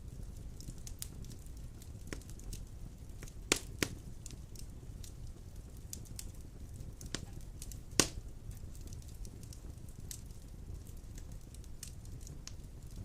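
Large wood logs burning in a stone fireplace: a steady low rumble of flame with scattered crackles and sharp pops. There are two loud pops close together about a third of the way in and the loudest pop a little past the middle.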